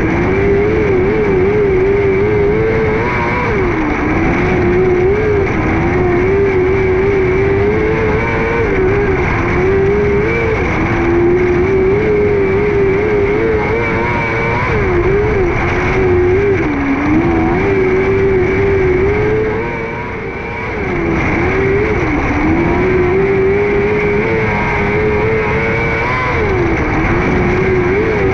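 600cc micro sprint car's motorcycle-based engine running hard at high revs, its pitch dipping briefly every few seconds as the throttle is lifted for the turns and climbing again, with one longer, quieter dip about two-thirds of the way through.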